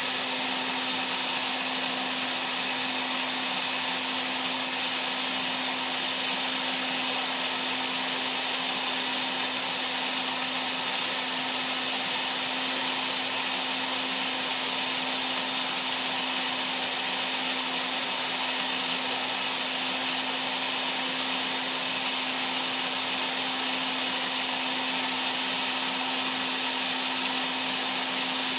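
Glass tube bending setup running: a loud, unbroken hiss with a steady low hum under it, the noise called horrible.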